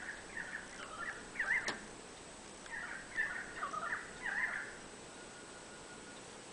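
Small bird chirping in two short bouts of quick, twittering chirps, with a single sharp click partway through the first bout.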